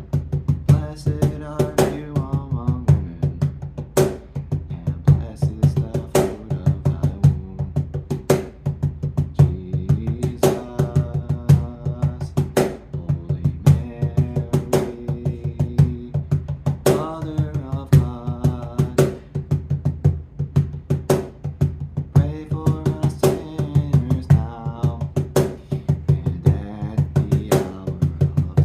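Cajon played in a steady rhythm, sharp slaps several times a second, over a praise-song backing of bass and a singing voice that comes in and out in phrases.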